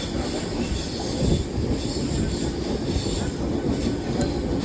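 A moving train: the steady rumble of its wheels on the track.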